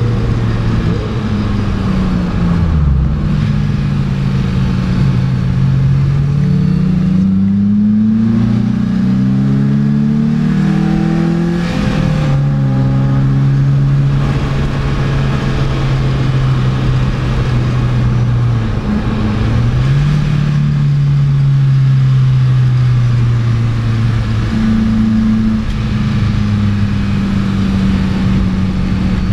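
Secma F16 roadster's engine heard from inside the car under acceleration, its note climbing and dropping through several gear changes in the first twelve seconds, then holding a steady pitch with a brief dip and climb about nineteen seconds in and a small step up near the end. Wind and road noise run under it.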